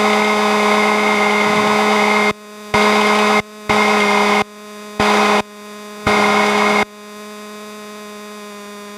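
Aircraft radio static and hiss over a steady droning hum. The hiss cuts out and comes back four times in short spells, then drops to a lower level.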